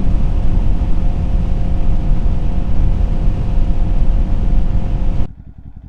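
Kawasaki Z400 parallel-twin motorcycle engine running under way with heavy wind noise. About five seconds in, the sound drops sharply to a quieter, even low pulsing of the engine at idle.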